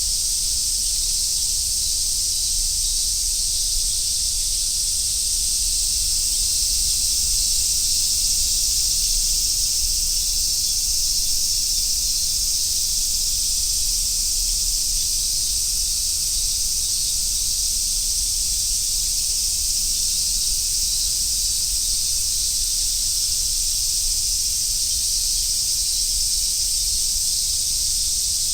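Chorus of cicadas, such as large brown cicadas (aburazemi), singing as one steady, continuous high-pitched drone that neither pulses nor changes, with a faint low rumble underneath.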